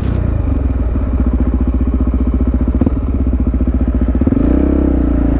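Motorcycle engine running at low revs with an even, pulsing exhaust beat; the pitch lifts slightly about four seconds in.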